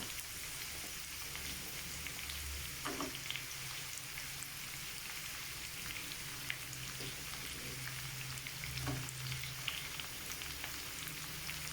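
Chopped carrots and beans sizzling in hot vegetable oil in a pan on a high flame: a steady frying hiss with occasional faint ticks.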